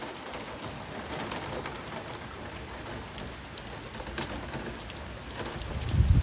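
Heavy rain falling steadily and splashing on flooded ground, with a brief low thump about six seconds in.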